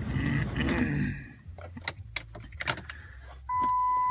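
Keys clicking and jangling in the ignition of a Dodge Cummins pickup as the key is cycled to preheat for a cold start. About three and a half seconds in, a loud, steady electronic chime tone from the dashboard starts and holds.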